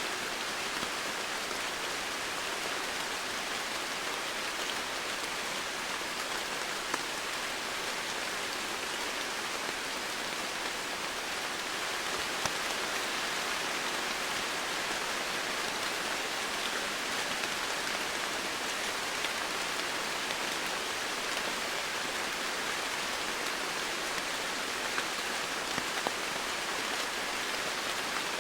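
Steady rain falling, an even hiss of drops with a few sharper individual drop ticks scattered through it.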